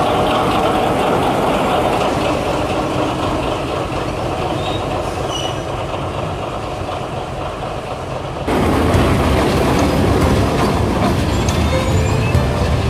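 Train running on the rails, a steady rolling noise with some clickety-clack. About two-thirds of the way through it is cut off abruptly and replaced by louder music.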